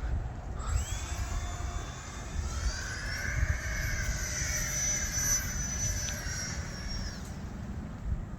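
Electric ducted-fan jet of an E-flite Habu STS RC plane whining as the throttle comes up about a second in, climbing again in pitch, holding steady, then cutting off about seven seconds in. Low rumble of wind on the microphone underneath.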